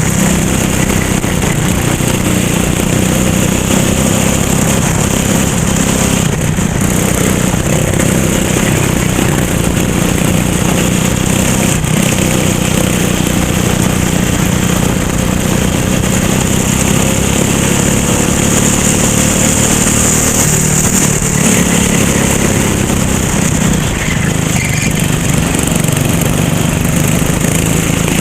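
Racing kart engine running continuously at speed, heard close up from on board; its pitch rises and falls gently through the corners and straights.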